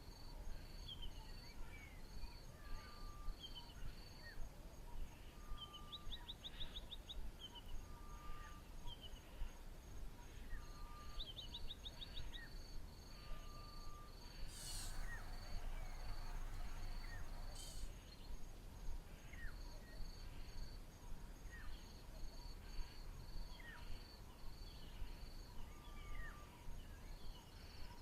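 Bush ambience: several birds calling with short chirps, slurred whistles and a couple of quick trills, and one low whistled note repeated every two or three seconds, over a high insect buzz pulsing about three times a second. A brief rush of noise rises about halfway through.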